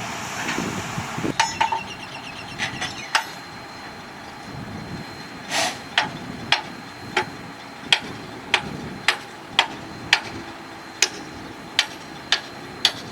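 Shantui bulldozer's steel tracks clanking over the low rumble of its engine. A few scattered metallic clinks come first, then from about halfway through come sharp clanks, roughly one every 0.6 s.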